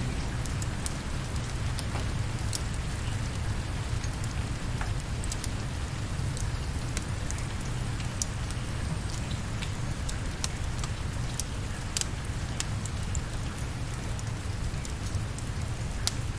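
Steady rain with a low rumble underneath, and scattered sharp crackles and ticks throughout.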